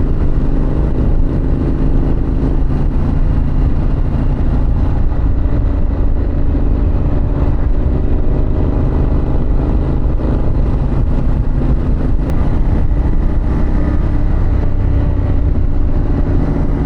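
2024 Harley-Davidson Pan America's V-twin engine running at a steady cruising speed, its even engine note mixed with low wind rumble on the rider's microphone.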